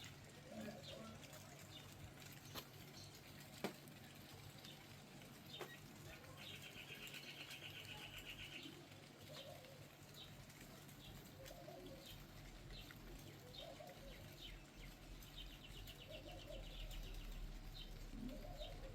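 Faint outdoor birdsong: low, short coo-like calls repeating throughout, and two high trills of about two seconds each. A few sharp faint clicks come in the first six seconds.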